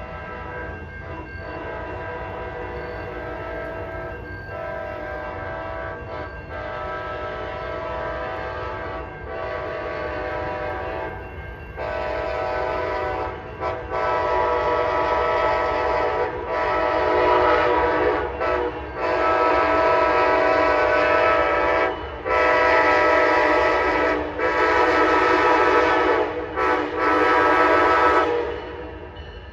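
A locomotive's multi-note air horn blowing a long series of blasts with short breaks between them, faint at first and much louder from about twelve seconds in as the train draws near, over a steady low rumble. The horn stops shortly before the end.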